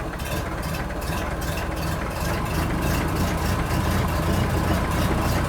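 A motor running steadily, with a fast, even rattle.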